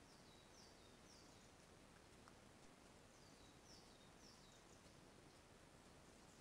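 Near silence with a steady hiss, over which a distant bird calls twice, each time a quick run of three short, high, falling notes.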